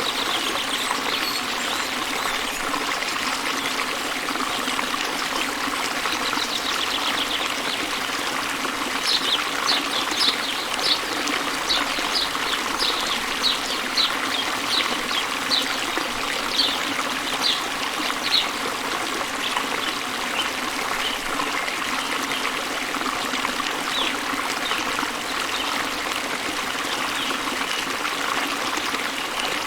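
Small waterfall splashing into a river, a steady rush and trickle of water. A bird calls a rapid series of short high notes, about two a second, from about nine seconds in to about eighteen seconds, with a few single notes later.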